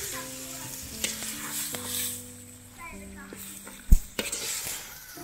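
Cow stomach and vegetables sizzling in a metal wok while a metal spatula stirs and scrapes through them. A single sharp clank of the spatula against the pan comes about four seconds in.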